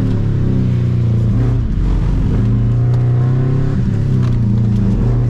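Subaru Impreza 2.5 RS's 2.5-litre flat-four engine under hard driving, revving up and easing off between corners, its pitch dipping and climbing again a few times.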